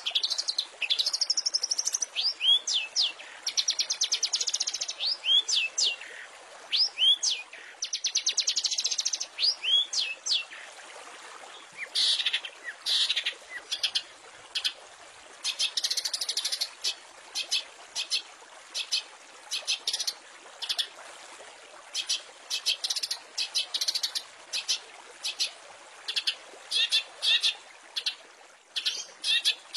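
Long-tailed shrike (cendet) singing a varied song. The first half has falling whistles and buzzy trills; after that comes a long run of short, sharp, harsh notes, about two a second.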